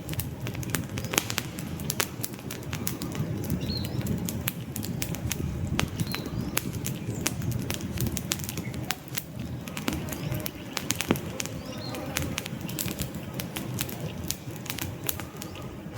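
Wood campfire burning, crackling with many irregular sharp pops over a steady low rush of flames. A few faint high bird chirps come through now and then.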